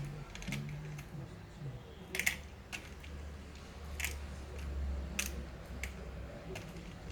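Scattered sharp clicks and taps of small plastic and metal laptop parts and tools being handled during disassembly, about seven in all. A low hum rises and fades in the middle.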